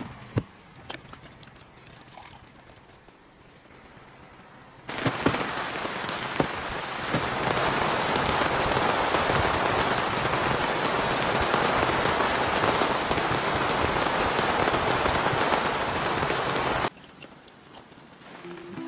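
A few faint clicks at first. About five seconds in, heavy rain starts abruptly and pours steadily for about twelve seconds, then cuts off near the end, leaving quiet with faint ticks.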